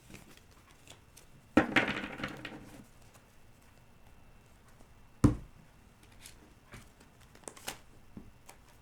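Tarot cards being handled on a table: a short rustling slide of cards about a second and a half in, a sharp tap about five seconds in, and a few light clicks near the end.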